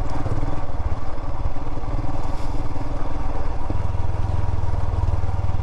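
Royal Enfield Himalayan's single-cylinder engine running steadily under way, its firing thump carried under a constant rush of wind and road noise.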